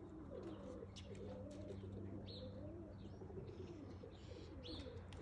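Domestic pigeons cooing repeatedly, with a faint steady low hum underneath that stops about three and a half seconds in.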